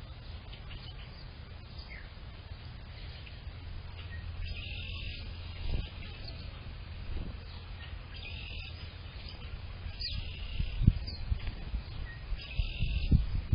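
Small songbirds calling and singing in short, high phrases every few seconds, over a steady low rumble of wind on the microphone, with a couple of louder bumps near the end.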